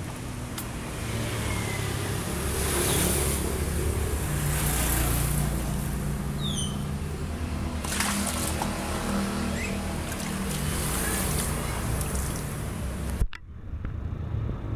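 A steady motor hum under a broad hiss like water spraying, with a few brief high chirps; the sound drops away abruptly near the end.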